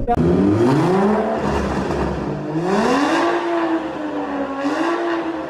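Toyota GR Supra with an aftermarket exhaust being revved: the engine's pitch climbs steeply, drops back, then climbs again and is held high, wavering, until near the end.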